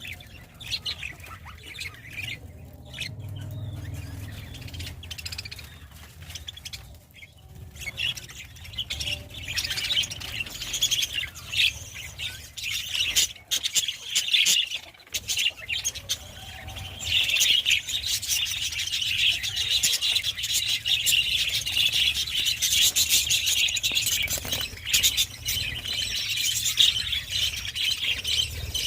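A flock of budgerigars chattering with rapid chirps and squawks. The chatter grows denser and louder a little past halfway.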